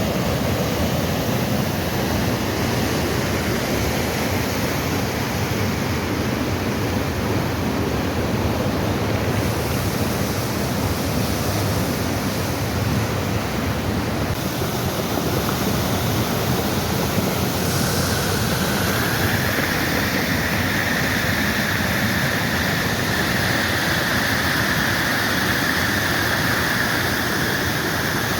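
Heavy rain pouring down steadily, a continuous rushing hiss of water. A little past the middle it takes on a brighter, higher hiss.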